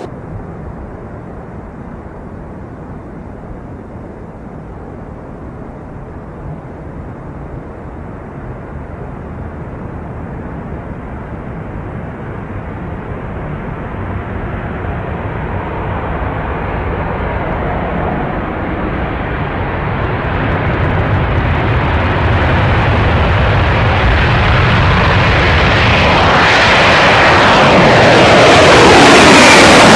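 B-1 Lancer bomber's jet engines approaching: a steady jet noise that grows louder and brighter throughout, with a sweeping, phasing sound near the end as it comes close overhead.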